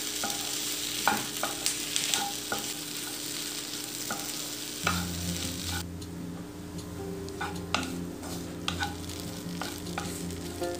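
Prawns frying in coconut oil in a nonstick pan, sizzling steadily at the dry final stage after their juices have cooked off. A wooden spatula stirs them, with scattered scrapes and light taps against the pan.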